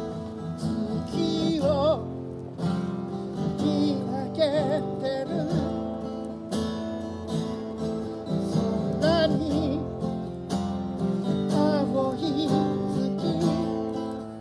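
Acoustic guitar strumming chords, with a melody line held with vibrato over it that swells in a few times.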